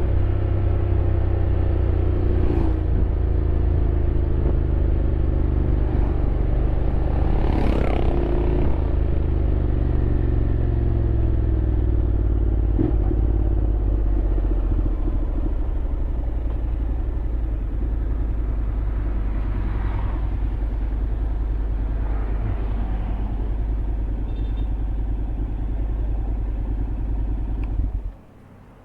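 Honda X-ADV 750's parallel-twin engine running steadily while the scooter is ridden, with road and wind noise. The engine pitch falls in the first couple of seconds. The sound cuts off suddenly near the end.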